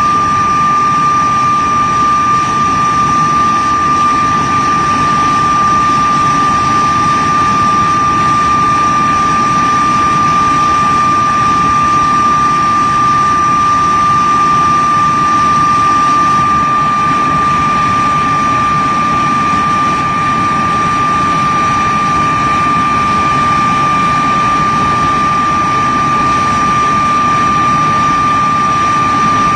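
De Havilland Vampire's turbojet engine running steadily on a ground run, with a strong high whine held at one pitch over its rushing noise.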